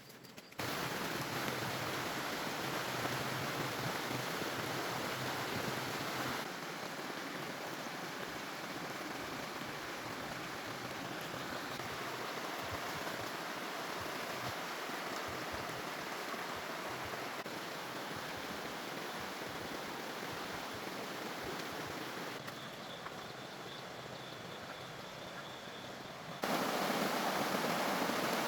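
Steady rushing noise with no distinct events, changing abruptly in level and tone three times and louder near the end.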